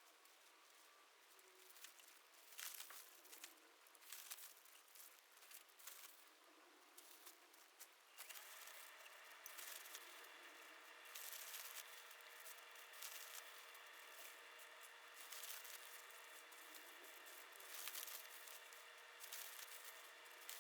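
Faint handling sounds: rustling, crinkling and light irregular clicks. About eight seconds in, a faint steady hum joins them.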